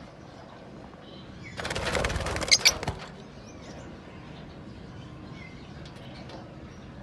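Lovebirds: a burst of wing flapping lasting about a second and a half, with two sharp shrieks in the middle, then faint chirps.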